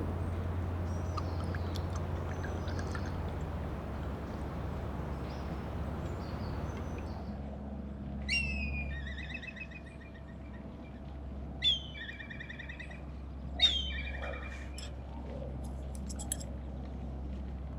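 Birds calling: three loud, harsh calls about three seconds apart, each a sharp high note dropping into a buzzy, wavering tone about a second long, with faint chirps early on. A steady low rumble runs underneath.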